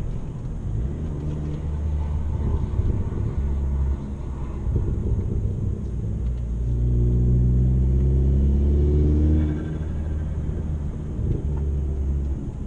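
Chevy Sonic's 1.4-litre Ecotec turbo four-cylinder engine running under way, steady at first, then revving up through a gear for a few seconds before dropping back as the throttle is lifted, about three-quarters of the way through.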